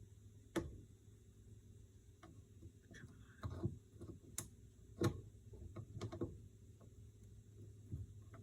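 Irregular metallic clicks and taps of snap-ring pliers slipping and catching on a snap ring in a power steering cylinder, about a dozen, the loudest about five seconds in, over a steady low hum.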